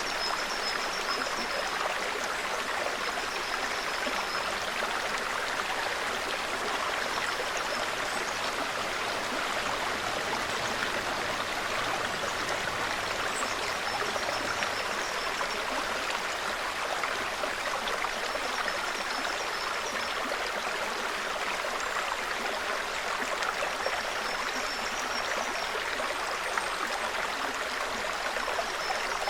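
Small forest brook babbling steadily over stones, with faint high-pitched bird calls coming and going every few seconds.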